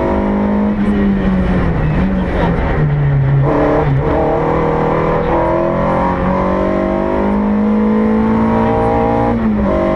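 Volkswagen Golf 1 GTI rally car's four-cylinder engine heard from inside the cabin, driven hard. The revs fall and step down over the first few seconds as it shifts down, then climb steadily through a gear and drop sharply at an upshift near the end.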